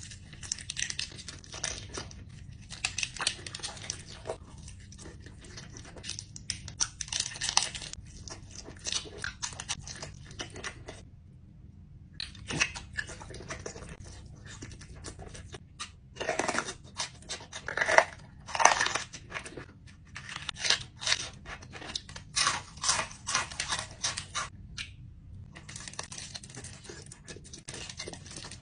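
A person chewing and crunching food up close, in irregular runs of crisp, crackly crunches broken by brief pauses.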